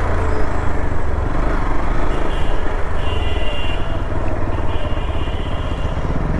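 Hero Xpulse motorcycle engine running at low riding speed, heard close from the rider's seat as the bike rolls over rough dirt ground.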